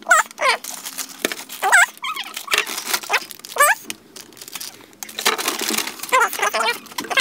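An animal's repeated short, high calls, each sweeping up and down in pitch, about two a second, with crinkling noise between them.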